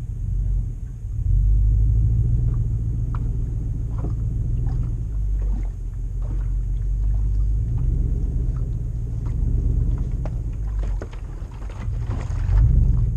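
Toyota 2UZ-FE 4.7-litre V8 in a 100 series Land Cruiser with a full exhaust, running with a deep rumble that swells about a second in, eases off for a moment, and swells again near the end, as the throttle is worked. Scattered short clicks and knocks sound over it.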